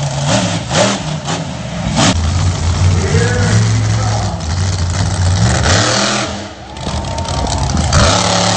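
Monster truck engine running loud and revving hard in repeated surges, with a voice talking over it.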